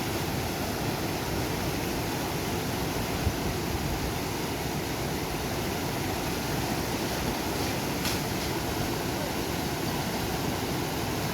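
Steady rushing of a monsoon-swollen mountain river, an even roar with no change, and one faint click about eight seconds in.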